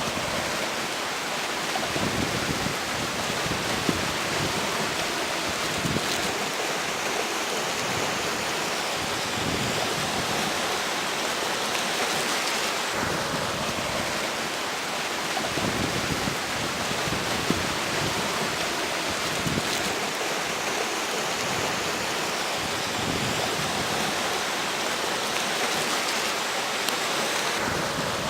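Steady rush of a flowing river, with gusts of strong wind rumbling underneath.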